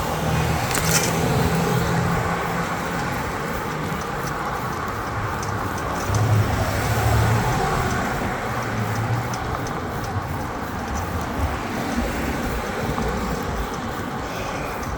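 Road traffic going by: cars passing, with engine hum that swells and fades over a steady noise of the roadway.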